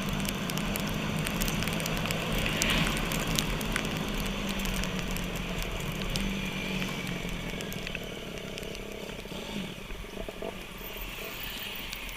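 Motorcycle engine running with a steady hum that fades out about eight seconds in, over a haze of wind or rain noise with scattered crackles.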